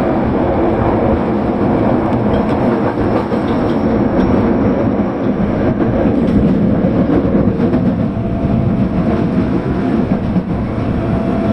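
Osaka Metro Tanimachi Line 22 series subway train running, with a steady, loud noise of wheels and motors on the rails.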